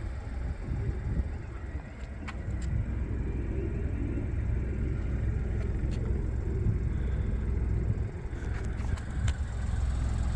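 Chevrolet Trax's 1.2-litre turbocharged three-cylinder engine idling steadily, with a few light clicks over it.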